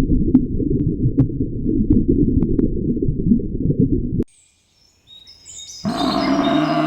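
A loud low rumbling noise with a few faint clicks cuts off abruptly about four seconds in. After a moment of silence, birds chirp, and near the end a loud, low, drawn-out animal call joins them.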